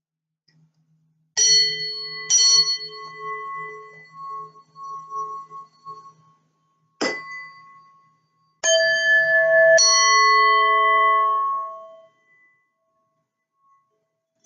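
Bells struck five times: two strikes a second apart, one alone, then two more close together. Each rings with several bright tones that fade over a few seconds.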